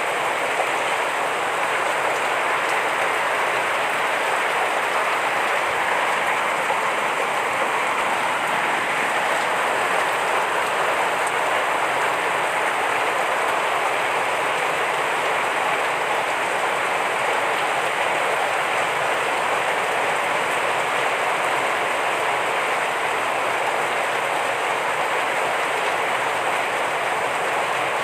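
Heavy rain falling steadily, a dense even hiss of drops with no lulls.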